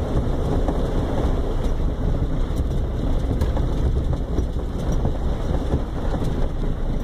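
Off-road vehicle driving along a rough trail, heard from inside the cabin: a steady low rumble of engine and tyres with small knocks from the bumps.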